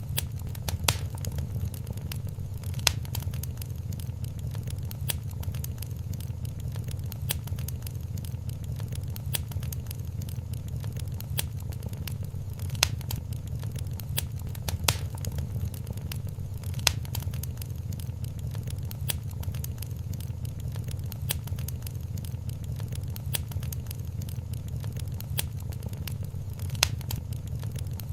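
Wood fire in a fireplace crackling, with irregular sharp pops and snaps, a few louder than the rest, over a steady low rumble of the flames.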